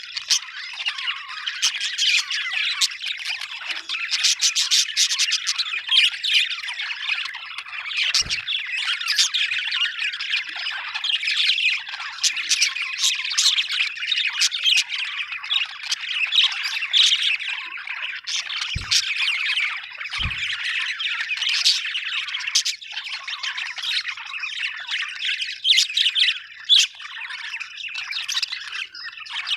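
Budgerigars chattering without a break, a dense mix of quick warbles, chirps and clicks. A few soft knocks come through, one about a third of the way in and two close together past the middle.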